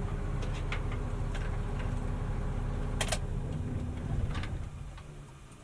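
Mercedes-Benz Unimog U500 turbo diesel idling with a low steady hum, a few sharp clicks over it, the loudest about three seconds in. The sound fades away near the end.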